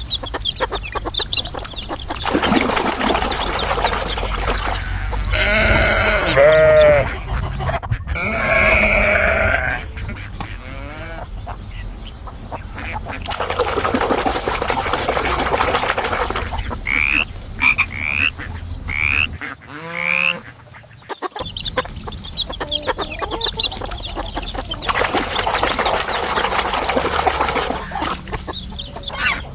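A run of recorded animal call sound effects, one after another: a wavering call about six seconds in, a few quick chirps around seventeen seconds, and a falling call around twenty seconds, with stretches of steady hiss between them.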